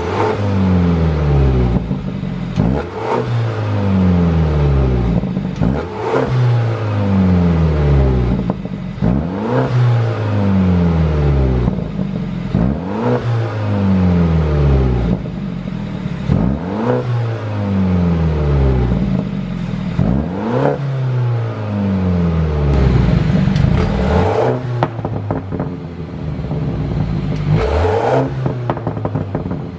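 BMW 330i's 2.0-litre turbocharged four-cylinder being blipped over and over, about every two seconds, each rev falling back with pops and crackles from the exhaust, the sound of a pop-and-crackle tune.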